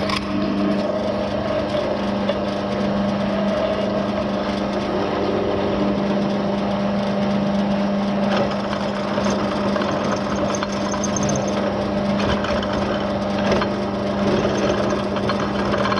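A motor running steadily under load, with a constant low hum and a rough grinding noise over it.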